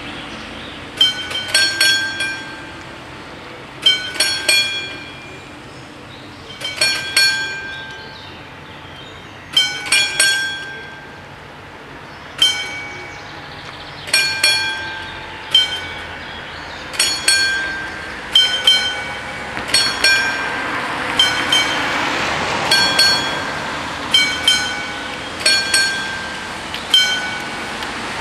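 Two level-crossing warning bells ringing, their strokes falling unevenly in ones and twos every second or two. From about two-thirds of the way through, the rising rumble of an approaching train builds under them.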